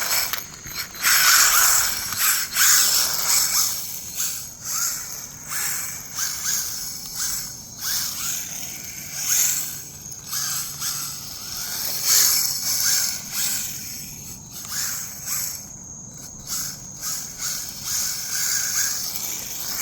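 RC rally car driving and drifting: its drivetrain whines in repeated throttle surges, rising and falling about once a second, with tyres scrubbing on the surface.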